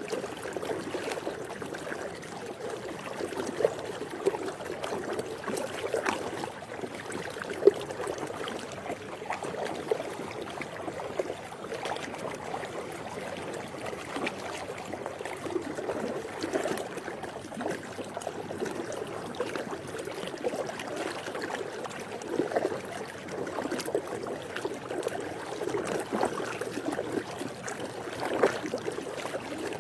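Swimming pool water lapping and gurgling: a steady stream of small splashes and drips, with one sharper splash about eight seconds in.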